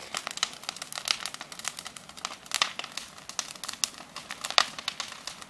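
Bonfire crackling and popping, a dense run of irregular sharp cracks, as cardboard boxes in the fire catch.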